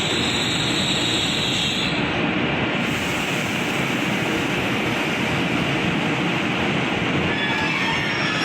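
A train passing close by on the rails, with a steady, loud rumble of wheels on track. Faint high wheel squeals come in near the end.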